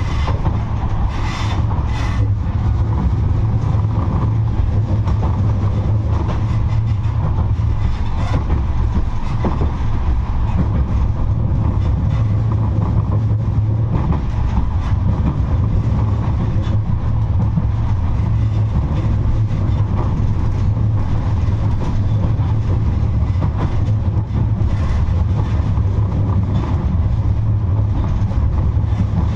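71-628-02 tram running along the track: a steady low rumble of wheels and running gear on the rails, with a few short sharp clicks.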